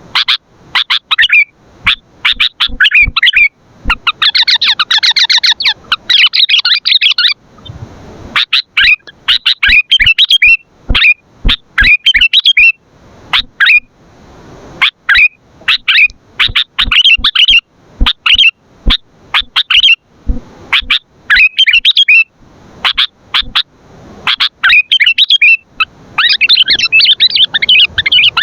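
Sooty-headed bulbul (kutilang) singing in a lively, continuous run of quick chirping phrases with short breaks between them. The song is busier and more overlapping in two stretches, near the start and near the end.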